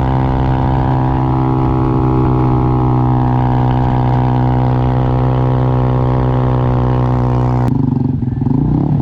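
Motorcycle engine running at a steady speed, holding one even note. A little before the end the sound changes abruptly to a rougher, less even engine sound.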